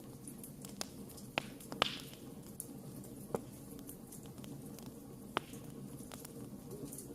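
Wood campfire crackling: irregular sharp pops and snaps, about five clear ones in seven seconds with the loudest a little under two seconds in, over a low steady background of the burning fire.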